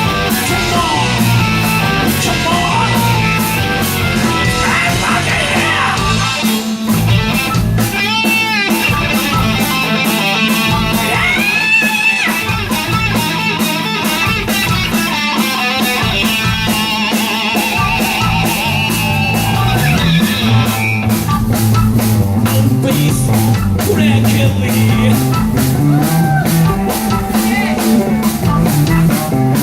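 A live hard rock band playing: an electric guitar lead with bent, gliding notes over drum kit and bass. About two-thirds of the way in the drums settle into a steady, fast beat.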